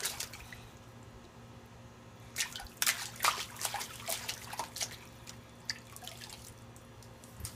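Water splashing and dripping as a shirt is washed by hand in water, with two clusters of splashes about two and a half and four seconds in, then a few drips.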